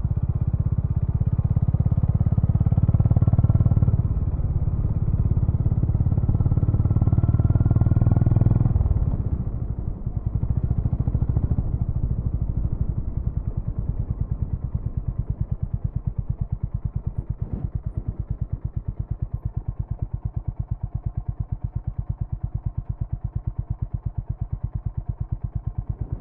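Honda GB350's air-cooled single-cylinder engine heard through its exhaust, revved twice, then settling about nine seconds in to a steady idle with an even, slow thump.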